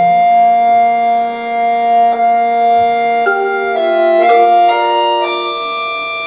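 Concert accordion playing held chords of steady, vibrato-free reed tones, the harmony shifting several times in the second half.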